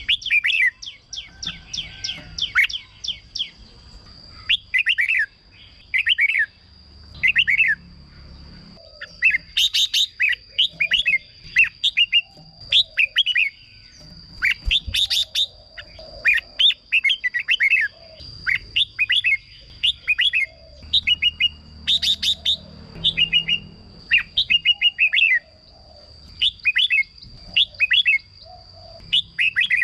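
Red-whiskered bulbul singing: short, loud warbled phrases repeated every second or so, in clusters with brief gaps. A steady high-pitched whine runs underneath.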